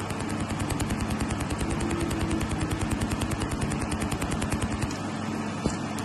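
ORLaser LRS EVO 160W pulsed laser welder firing, a rapid, evenly spaced ticking over a steady machine hum; the ticking eases off about five seconds in.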